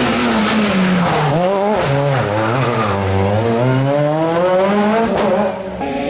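Rally car engine at speed: its pitch drops as the car slows, wavers low for a couple of seconds, then climbs again as it accelerates away. Near the end the sound changes abruptly.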